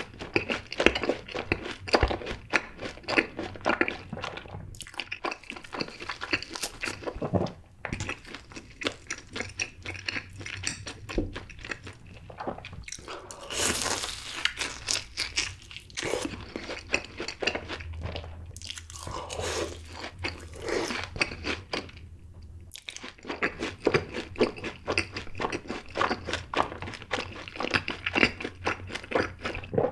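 Close-miked crunching and chewing of fried cheese balls with a crisp, seasoned coating: dense rapid crackles from the crisp shell, with a louder noisy stretch about halfway through.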